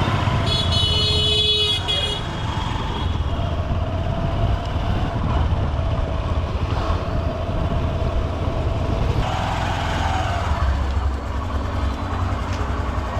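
Honda SP125's single-cylinder engine running in dense city traffic, with a vehicle horn sounding from about half a second in for over a second.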